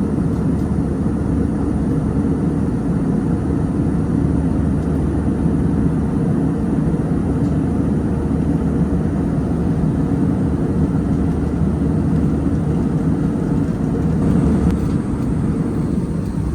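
Steady airliner cabin noise in flight, heard from inside the cabin: an even, low rush of airflow and engines.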